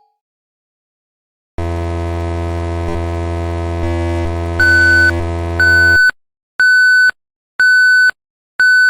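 Synthetic electronic sound effect: a steady low buzzing hum for a few seconds, then a high beep that repeats about once a second.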